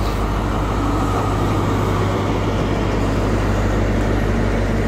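A Class 43 HST power car's diesel engine running with a steady low hum, close by at the platform.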